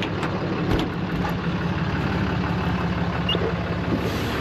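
Truck engine idling steadily, with a couple of short knocks early on.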